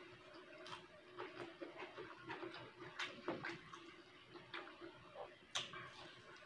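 Faint close-up eating sounds: chewing and lip smacks with many small wet clicks as rice and fried fish are eaten by hand, one sharper click near the end, over a faint steady hum.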